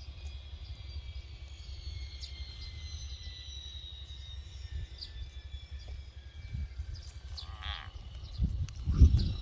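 A single short bleat-like cry about three-quarters of the way in, the distress scream of a frog seized by a tiger keelback snake. Under it is a steady low rumble of wind on the microphone, with loud low thumps near the end.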